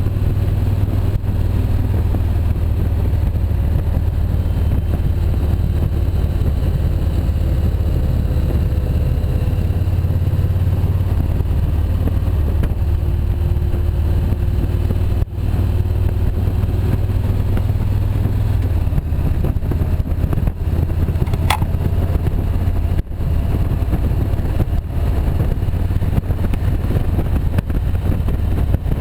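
Motorcycle engine running at road speed, its pitch wavering up and down as the throttle changes, under a heavy low rumble of wind on the microphone.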